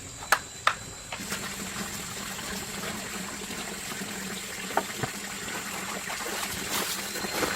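Steady trickling water, with a few light clicks: two near the start and a couple about five seconds in.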